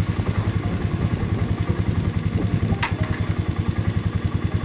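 A vehicle engine running steadily with an even, rapid throb. There is a single sharp click about three seconds in.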